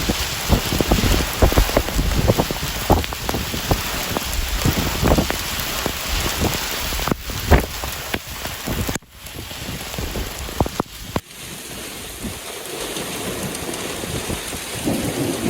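Heavy rain in strong wind gusts, with many sharp hits in the first half. The sound drops out abruptly twice a little past the middle, then goes on steadier and softer.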